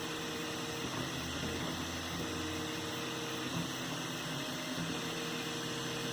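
3D printer running: a steady fan hiss, with its stepper motors humming in short pitched tones that start, stop and change as the print head moves.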